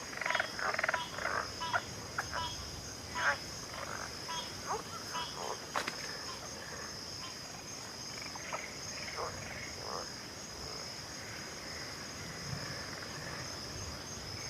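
Backwater chorus of frogs giving short, repeated calls, thick for the first several seconds and thinning out after, over a steady high insect trill. A single sharp click about six seconds in.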